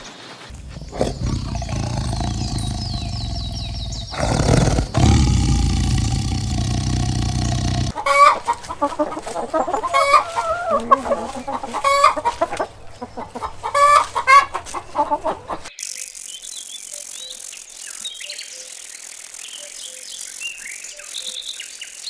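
Chickens clucking: a busy run of short, repeated calls in the middle, after a stretch of steady background noise, then quieter high chirps near the end.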